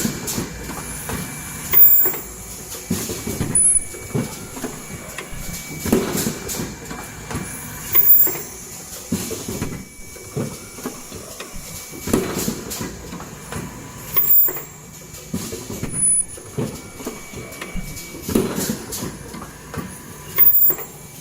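Automatic N95 cup mask machine running through its cycle: a repeating pattern of mechanical and pneumatic clunks and clicks, with a louder stroke about every six seconds, over a faint steady high tone.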